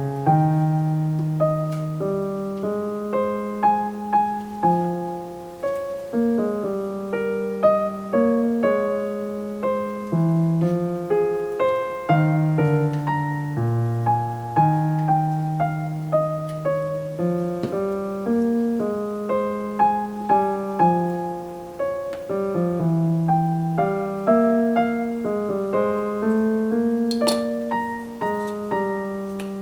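Solo piano music: a melody over a lower accompaniment, each note struck and left to ring.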